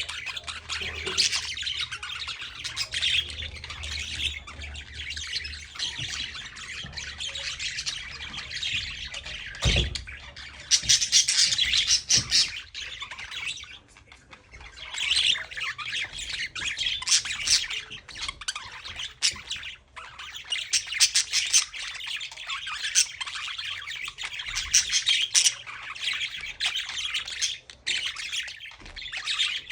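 Budgerigars chattering and squawking without a break, a dense flock-like warble of chirps and scratchy calls. It goes briefly quieter about halfway through, and there is a single low thud shortly before that.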